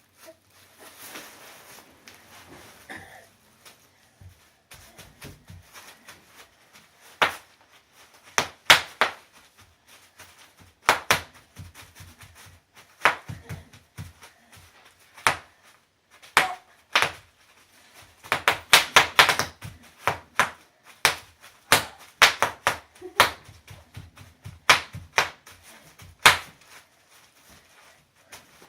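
Bubble wrap being popped by stepping on it: sharp pops at irregular intervals, some single, some in quick clusters, thickest a little past the middle.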